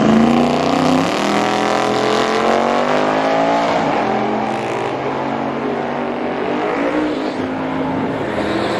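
Drag-racing engine under hard acceleration, its pitch rising, dropping back and climbing again as the run goes on.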